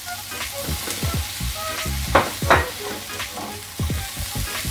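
Vegetables stir-frying in a non-stick frying pan: a steady sizzle under repeated scrapes and knocks of a slotted spatula tossing carrots and freshly added bell pepper strips. The loudest pair of scrapes comes about two seconds in.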